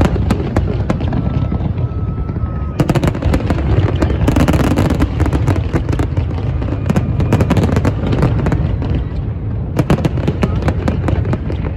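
Fireworks going off: a dense run of bangs and crackles over a low rumble, heaviest from about three seconds in until near the end.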